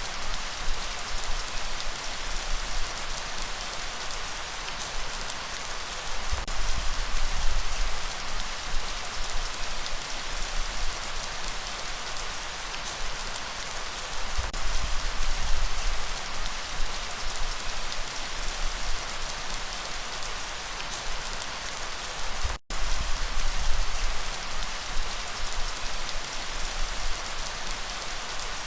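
Steady rainfall: an even hiss of falling rain with a low rumble underneath. The sound cuts out completely for a split second about three-quarters of the way through, then resumes.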